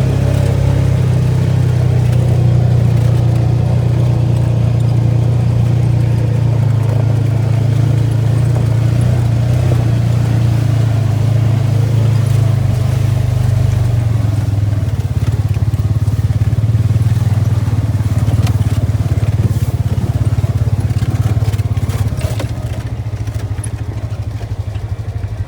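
ATV engine running steadily under way, with scattered rattles and knocks over it; it drops a little in level near the end.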